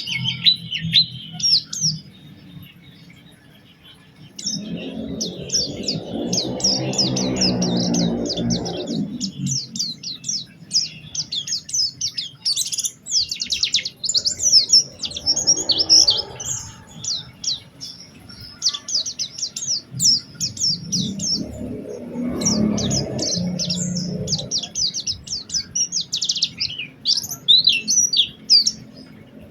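Pleci (white-eye) singing a fast, unbroken run of high chirps and twittering trills. A lower pitched sound in the background swells and fades three times.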